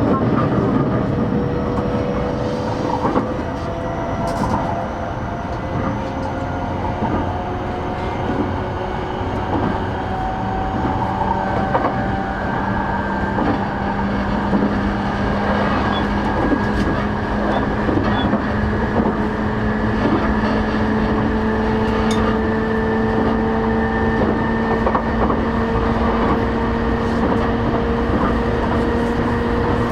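Running noise inside an E233 series 8000 electric train: steady wheel and rail rumble, with the whine of the VVVF inverter and traction motors climbing slowly in pitch through the second half as the train picks up speed.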